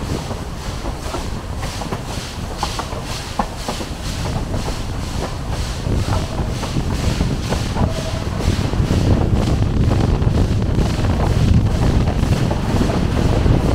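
Narrow-gauge train running past with a steady rhythmic beat and a deep rumble that grows louder in the second half, under heavy wind noise on the microphone.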